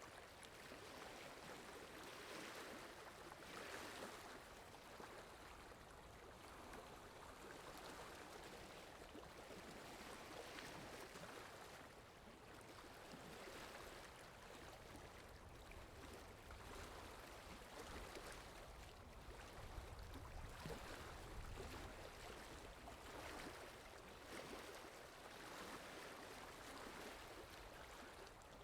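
Faint, steady rush of a flowing stream, swelling and easing every few seconds.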